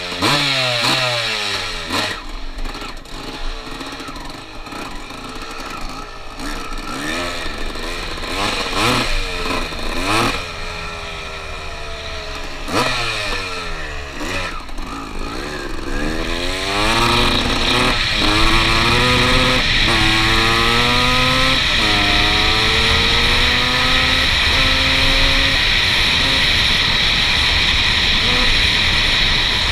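A 1996 Suzuki RM250's single-cylinder two-stroke engine being revved in short throttle blips, then accelerating hard through the gears. Its pitch climbs and drops back at each upshift before settling at a steady high-speed note.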